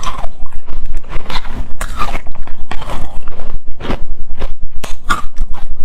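Hard, frosty shaved ice being bitten and chewed: a quick, uneven run of loud crunches, several a second.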